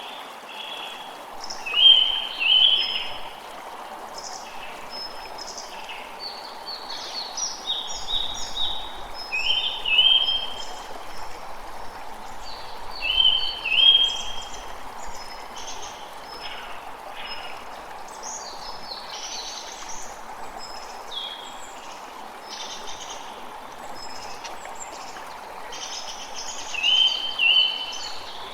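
A creek running steadily, with several songbirds calling over it; a louder two-note bird phrase comes four times.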